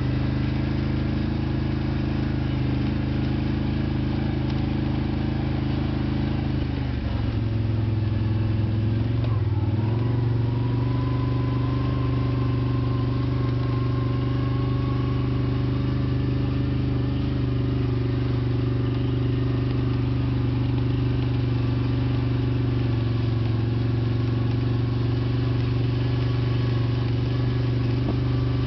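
Steady motor hum with a brief dip and shift in pitch about seven to ten seconds in.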